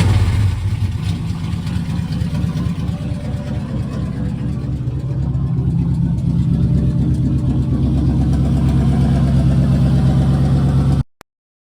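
GMT400 Chevy/GMC pickup engine running with its muffler removed, the open exhaust loud. A steady low running that grows somewhat louder partway through, then cuts off abruptly near the end.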